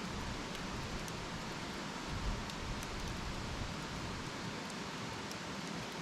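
Wood campfire burning: a steady hiss with small crackles and pops scattered through it, and a soft low thump about two seconds in.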